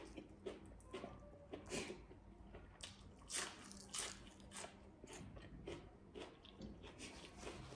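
A person chewing a hand-fed mouthful of fresh greens, with a run of soft, irregular crunches and wet chewing.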